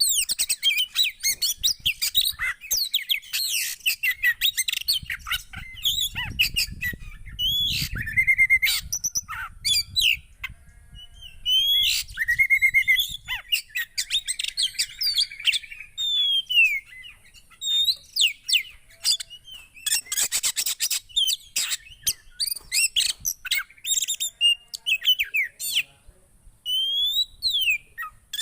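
Songbird, the Indonesian 'poci', singing busily in quick chirps, trills and rising and falling whistles, with brief pauses. This is song used to coax a silent caged poci into singing. A low rumble sits under the song for several seconds a few seconds in.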